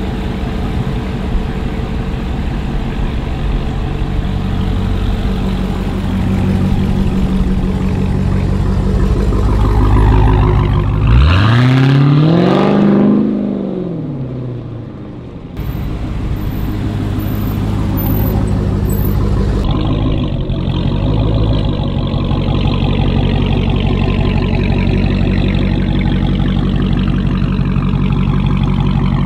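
Dodge Challenger SRT Hellcat's supercharged V8 idling, then revving up and back down in pitch about eleven seconds in as the car drives off and fades away. After a cut it idles steadily again, heard close behind the exhaust tips.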